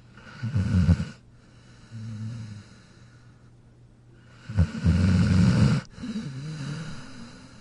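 A sleeping dog snoring: two loud snores a few seconds apart, each followed by a softer, shorter rumbling breath.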